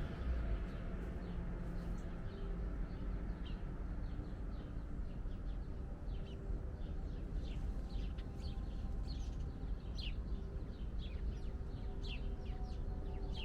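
Small birds chirping in short, quick calls, thicker in the second half, over a steady low rumble.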